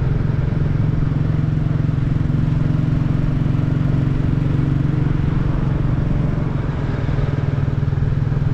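Motorcycle engine running steadily while riding, a little quieter in the last two seconds.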